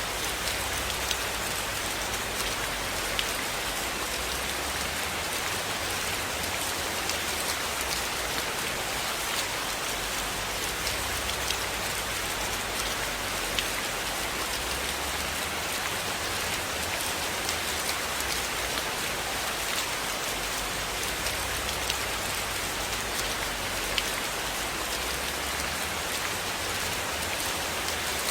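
Steady rain falling, a dense even hiss, with scattered sharp crackles from a wood fire in a fireplace and a low rumble that swells and fades.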